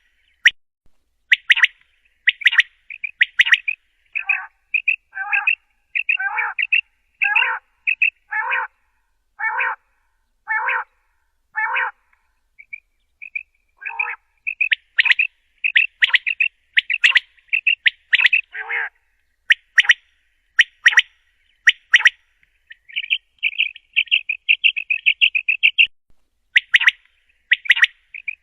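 Common quail calling: a long series of short, sharp chirping notes, with a run of lower, harsher notes about once a second in the first half and a quick rapid run of chirps later on.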